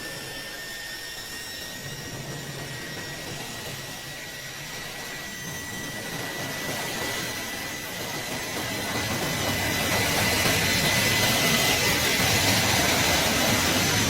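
Jet aircraft engines running with a steady high whine over a rushing noise that grows louder in the second half.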